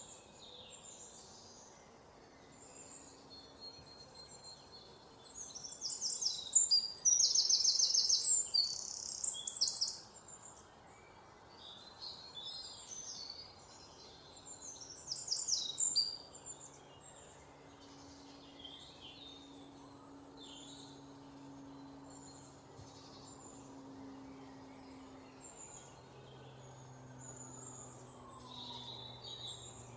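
Several songbirds chirping and singing, with short bursts of rapid, high-pitched repeated notes. The loudest bursts come about six to ten seconds in and again around fifteen seconds, over a faint steady outdoor background.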